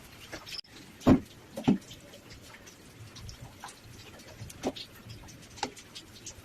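Two loud knocks about half a second apart, then a few lighter scattered taps, over a faint steady hiss.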